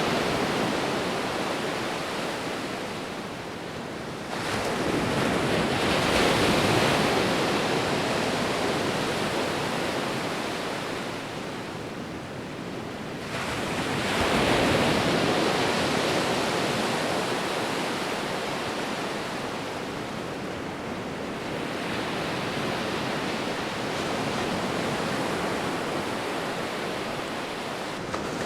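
Ocean waves breaking and washing on the shore, a steady surf rush that swells twice, at about four and fourteen seconds in, and then eases off.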